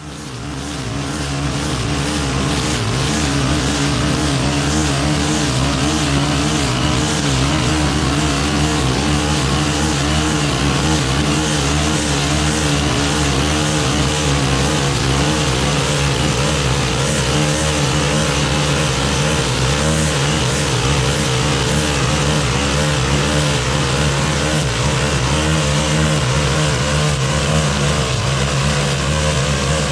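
Stihl FS 131 brushcutter's small 4-MIX engine revving up to high throttle and running steadily while it cuts through thick, wet canary grass.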